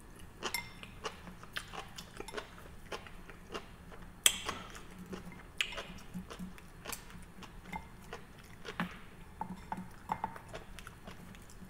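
A person chewing sushi, with soft mouth sounds and scattered light clicks of wooden chopsticks; one sharper click about four seconds in.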